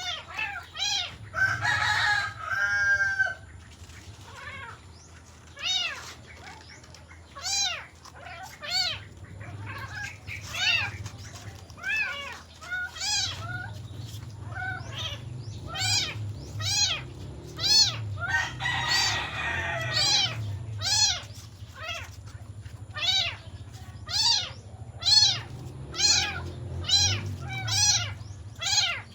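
Cat meowing over and over: short, high, rising-and-falling mews about once a second, with a longer, louder call about two seconds in and again about nineteen seconds in.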